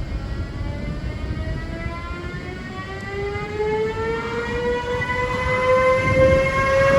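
Electric locomotive's traction motors whining as the train picks up speed, the pitch rising steadily and getting louder over a low rumble.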